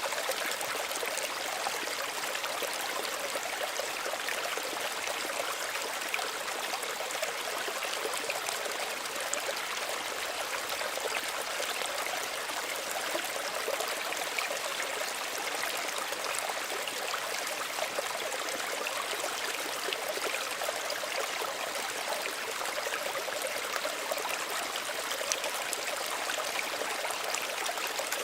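Small stream running steadily, a continuous babbling and trickling of water over stones.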